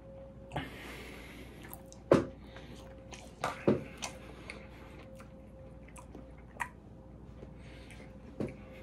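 Close-miked eating sounds: chewing with the mouth closed, broken by sharp wet mouth smacks and clicks. The loudest come about two seconds in and twice in quick succession around three and a half seconds, with smaller ones scattered through the rest. A faint steady hum runs underneath.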